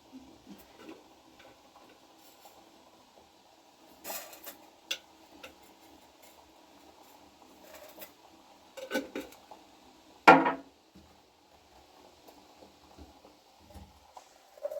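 A few scattered clinks and knocks of dishes being handled, the loudest a little past halfway.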